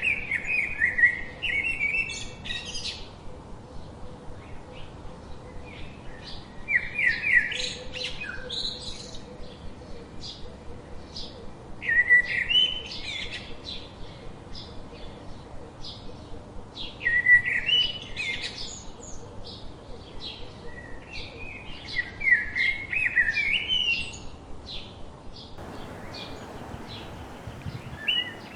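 Songbirds singing: a short phrase of quick notes repeated about every five seconds, over a steady run of high chip notes at about three a second.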